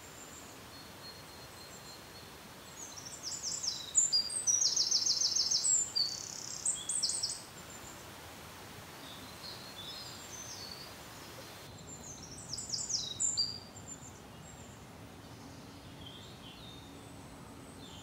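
A songbird sings two bouts of fast, high repeated notes, the first about three seconds in and lasting some four seconds, the second shorter, about twelve seconds in. Under it runs the steady hiss of a rushing waterfall.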